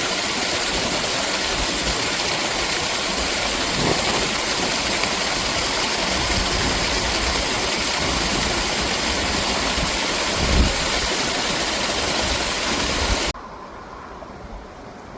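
A strong stream of water pouring and splashing in a steady, loud rush, with a couple of brief low bumps of wind on the microphone. About thirteen seconds in the rush drops abruptly to a quieter, duller sound.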